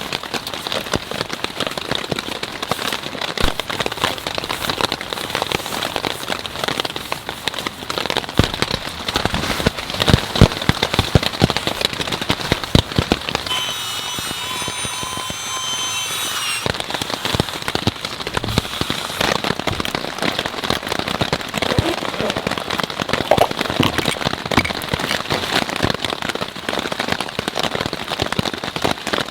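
Steady rain: a dense patter of drops striking a surface, with some heavier drops about ten seconds in. About halfway through, the low patter briefly thins and a short, high, pitched sound is heard for about three seconds.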